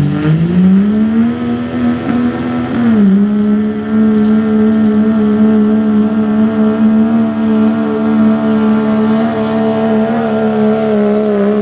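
Diesel 4x4 pickup engine at full throttle pulling the sled. The revs climb in the first second, dip briefly about three seconds in, then hold high and steady.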